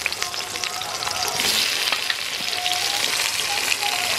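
Halved pointed gourds (potol) shallow-frying in a little vegetable oil in a kadai: a steady sizzle with many fine crackles. It grows louder about a second and a half in.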